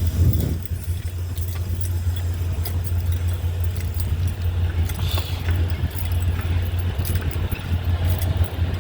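Semi truck's diesel engine idling, a steady low hum, with scattered light clicks and rattles.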